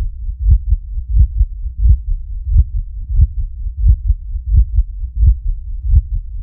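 Human heart sounds as heard through a stethoscope: paired first and second heart sounds (lub-dub), about one pair every two-thirds of a second, over a steady low rumble.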